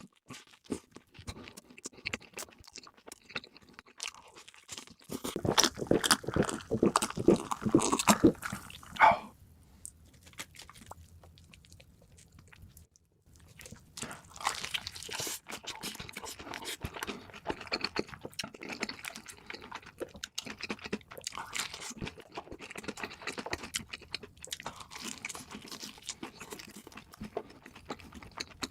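Close-miked eating of fast food: loud crunching bites for a few seconds, then after a short lull, steady chewing with small wet clicks and smacks.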